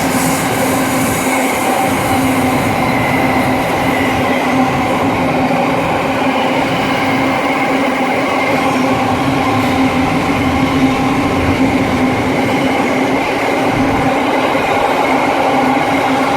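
A train running close by at the station, a loud steady hum with several held tones that neither rise nor fall.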